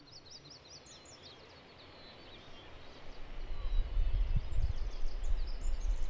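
Birds chirping in quick, high calls, a rapid run of them at the start and more scattered later. About three seconds in, a low rumble comes up under them and grows loud.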